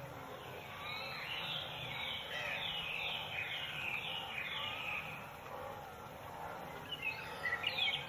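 Birds chirping in a marsh: a run of short, repeated, falling chirps from about a second in until about five seconds, then another quicker series near the end, over a steady background of ambient noise.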